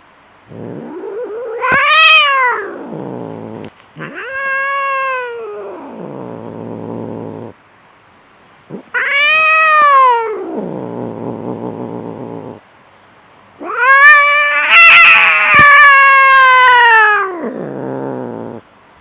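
Cats caterwauling in a fight: four long yowls, each rising and then sliding down into a low growl. The last and loudest yowl has two cats calling at once.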